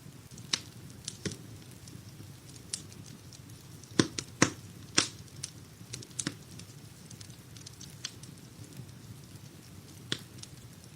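Wood fire crackling in a fireplace: irregular sharp pops and snaps, the loudest cluster about four to five seconds in, over a low steady rumble of the burning.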